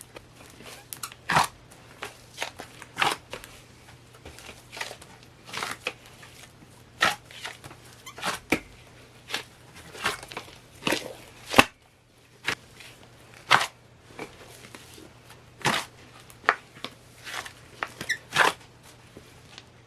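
A large batch of slime kneaded and squeezed by hand, giving irregular sticky pops and clicks, roughly one to two a second.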